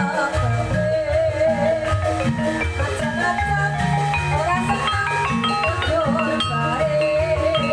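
Ebeg accompaniment music: an ensemble of tuned mallet percussion plays quick interlocking melodic notes over steady drum strokes. A wavering melody line is held above them.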